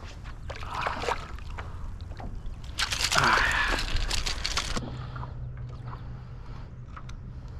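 Water sloshing and splashing against a kayak as a fish is handled, with the loudest, hissing splash lasting about two seconds starting about three seconds in.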